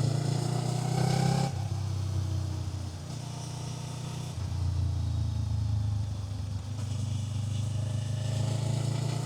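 Kawasaki Z500 parallel-twin engine running while riding: the note rises, drops suddenly about a second and a half in, then picks up again and rises and falls with the throttle.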